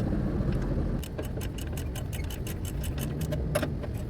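Ratchet with a 10 mm deep socket clicking quickly and evenly, about seven clicks a second, starting about a second in, with one louder click near the end.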